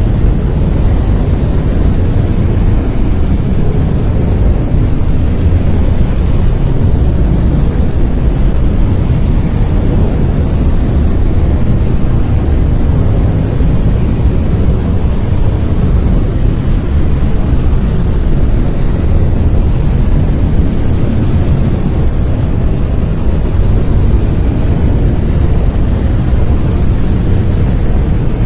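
Steady brown noise: an even, deep rumbling hiss, strongest in the bass and fading toward the treble, with no changes.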